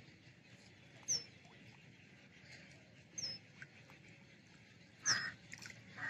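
A bird calling: three short, high, downward-slurred whistles about two seconds apart, the last the loudest and joined by a lower, harsher call.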